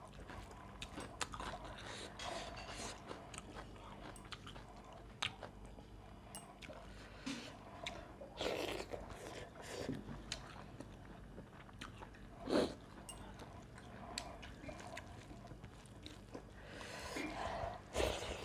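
Close-up eating sounds: chewing with crunchy bites and small wet mouth clicks, and a few louder bites spread through.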